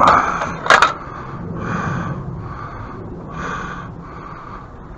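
A man's heavy breathing: a few loud, breathy exhales as he strains at a stubborn fastener. A sharp knock comes just under a second in.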